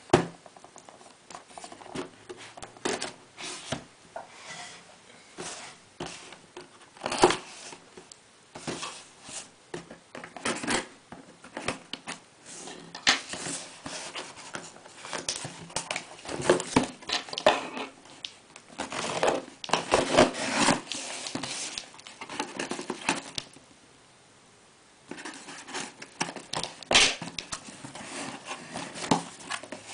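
A cardboard parcel being opened by hand: packing tape tearing, cardboard and packaging crinkling and rustling, with scattered knocks and clicks, pausing briefly about 23 seconds in.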